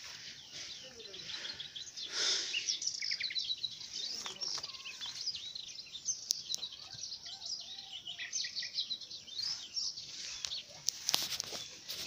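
Small birds singing and chirping, many short high calls overlapping one another. A few sharp crackles come near the end.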